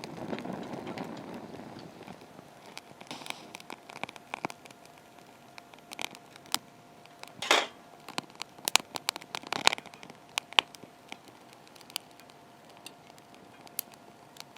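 Wood campfire crackling and popping with irregular sharp snaps, the loudest pop a little past halfway, after a short rustling noise at the start.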